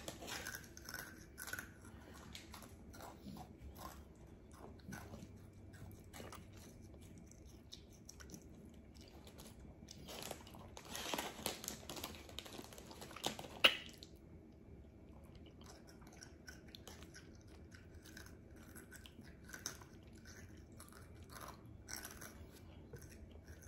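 Close-miked chewing and biting of food, with small crunches and mouth clicks. About ten seconds in comes a louder, noisier stretch that ends in a sharp click.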